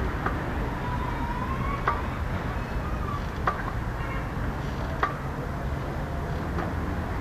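Canoe paddle knocking against the hull with each stroke, a sharp knock about every second and a half, over a steady low rumble.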